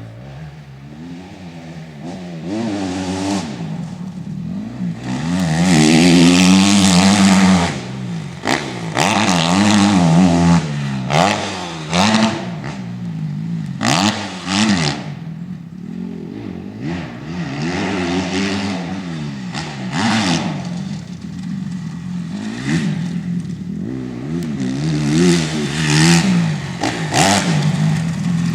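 Motocross bike engine revving up and dropping back over and over as it is ridden round the track, its pitch climbing and falling with each burst of throttle. It is loudest about a quarter of the way in and again near the end, where it passes close.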